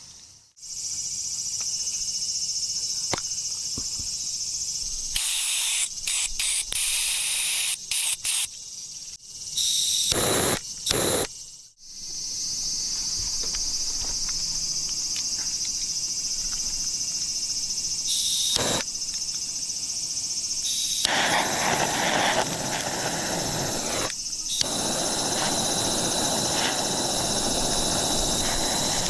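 A steady, high-pitched chorus of summer insects droning, broken off abruptly a few times by cuts. About two-thirds of the way through, a loud, steady hissing rush joins it and continues.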